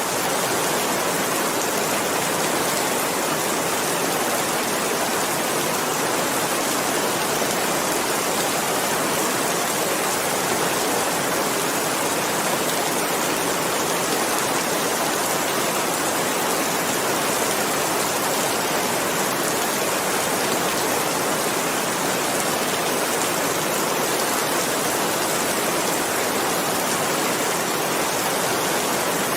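Steady heavy rain: a dense, even hiss of falling rain with no distinct drops or changes.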